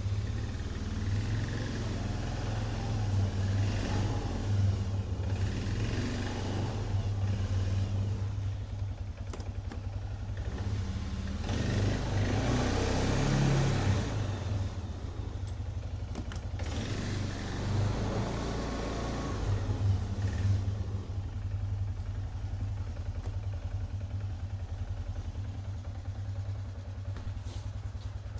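Small engine of a trail vehicle running, with the revs rising and falling in several surges, loudest about twelve to fourteen seconds in, then settling to a steadier run.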